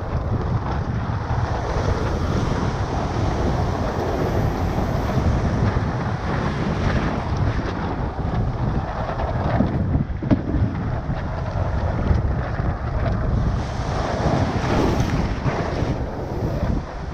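Strong wind buffeting the microphone over the wash of shorebreak waves.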